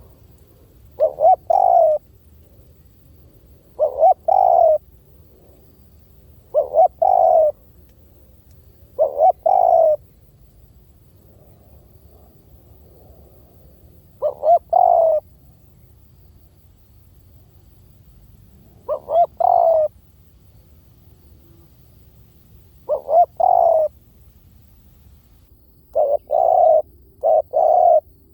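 Spotted dove cooing, used as a decoy call: each phrase is two or three quick short notes and a longer falling coo. The phrases repeat every two to three seconds, with a longer pause in the middle and a quicker run of calls near the end.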